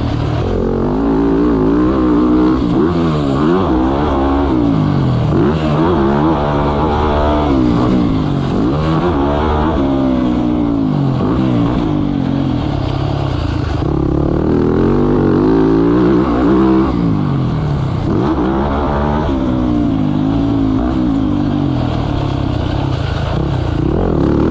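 Motocross bike engine revving hard and easing off over and over, its pitch climbing and dropping every second or two as it accelerates, shifts and slows.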